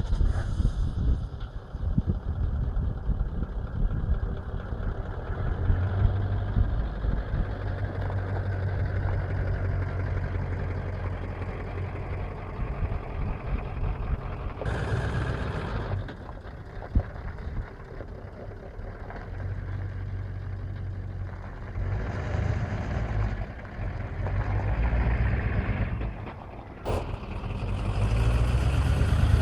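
Motor vehicle on the move: a steady engine and road rumble that eases off past the middle and builds again near the end.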